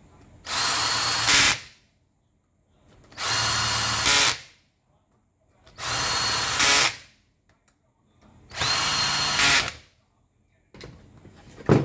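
A power tool's electric motor run in four short bursts of about a second each, evenly spaced, each ending with a brief louder peak. A few clicks and knocks follow near the end.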